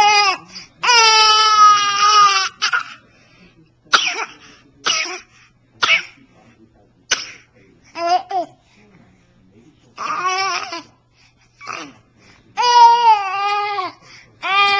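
A baby making real loud noises: long, high-pitched, wavering squeals of one to one and a half seconds, with short yelps and shrieks between them, somewhere between crying and laughing.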